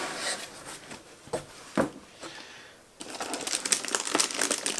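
A few light knocks from a cardboard box being handled and opened, then a rapid crinkling and rustling of paper packaging from about three seconds in.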